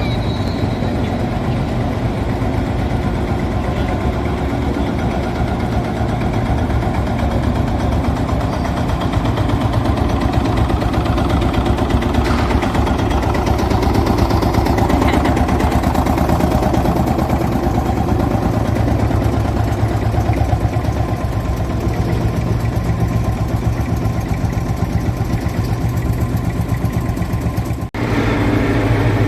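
Tractor engines running steadily as tractors drive off, with a brief break near the end.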